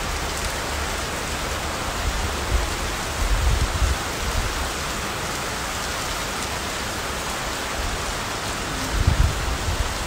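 Steady hiss of heavy rain falling. A few brief low rumbles break in, around three to four seconds in and again about nine seconds in.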